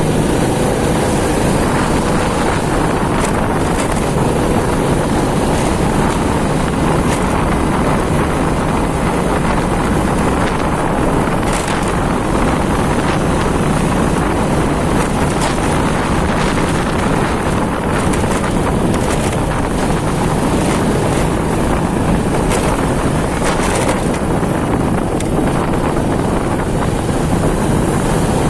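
Steady wind rush on the microphone over the running engine of a motorcycle riding through city traffic.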